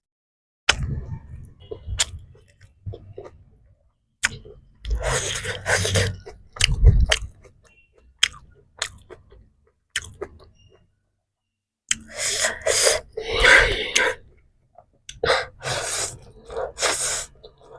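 Close-up chewing and mouth sounds from someone eating: wet clicks and smacks in clusters, with short pauses between mouthfuls.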